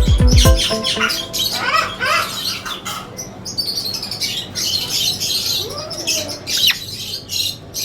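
Many caged birds chirping and calling at once, a dense overlapping chatter of short notes and glides. Background music with a sliding bass fades out in the first half second.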